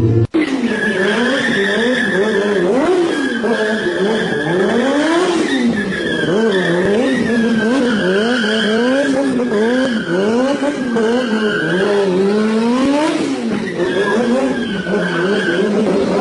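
An engine revving up and down over and over, roughly once a second, with a wavering high tire squeal running above it.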